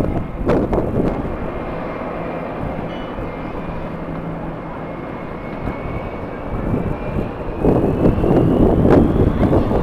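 Jet airliner engines running with a steady noise and a thin high whine that climbs in pitch over the second half. Strong wind gusts buffet the microphone at the start and again near the end.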